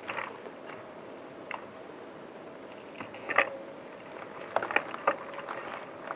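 Irregular crunching and snapping of dry twigs and forest litter, a few sharp cracks coming singly and then several in quick succession past the middle.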